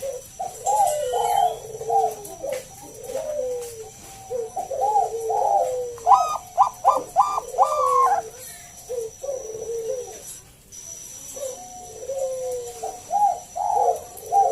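Zebra dove (perkutut, Bangkok song strain) cooing in repeated phrases, with a run of quick, higher notes about six seconds in.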